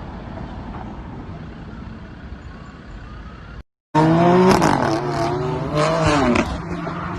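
Steady car road and engine noise from a dashcam. After a sudden brief silence it gives way to a much louder car sound: a steady low drone with several wavering tones that rise and fall.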